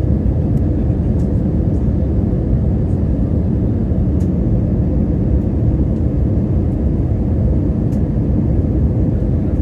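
Steady low rumble inside an airliner's passenger cabin in flight: engine and airflow noise, even and unbroken.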